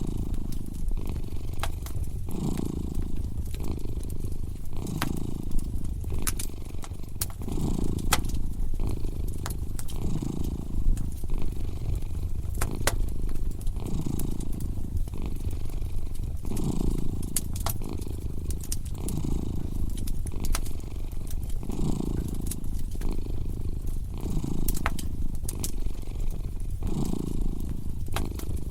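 A cat purring steadily, the low rumble swelling and easing about once a second with its breathing, over a fire crackling with sharp, irregular pops.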